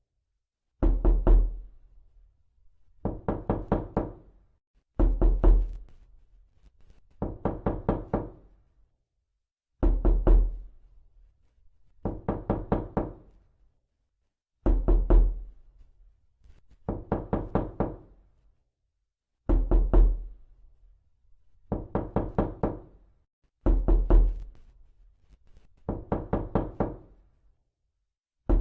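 Knocking: quick runs of about half a dozen sharp knocks, repeated every couple of seconds with short silences between.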